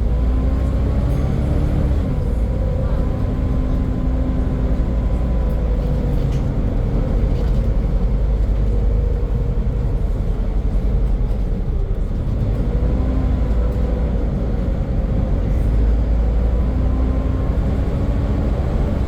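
Volvo B7 double-decker bus running, heard on board: a deep engine rumble under a loud hoover-like whine that drops in pitch about two seconds in, holds, and rises again in the second half.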